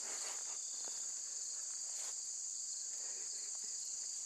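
Steady night chorus of crickets, a continuous high-pitched trilling with no break, with a few faint ticks and rustles underneath.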